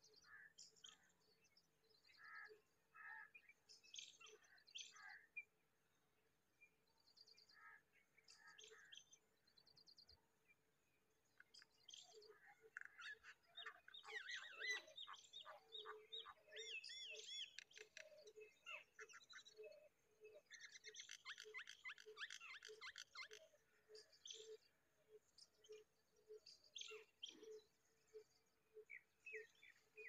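Faint chirping and twittering of small birds. The calls are scattered at first, then overlapping trills and chirps crowd together through the middle.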